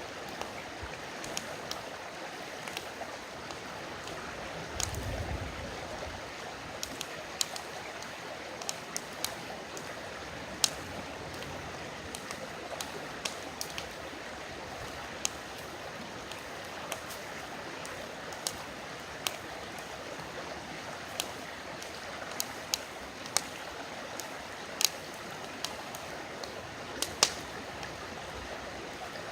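Wood campfire crackling with sharp, irregular pops over the steady rush of a river, with one low thump about five seconds in.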